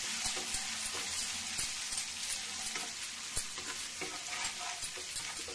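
Coarsely crushed ginger and garlic sizzling in hot oil in a pan, stirred with a wooden spatula that scrapes and taps against the pan now and then.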